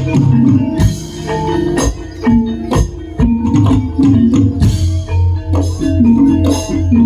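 Javanese jaranan gamelan music: tuned gong-chimes and metallophones play a repeating melody over deep gong and drum strokes, with bright cymbal-like crashes every second or two.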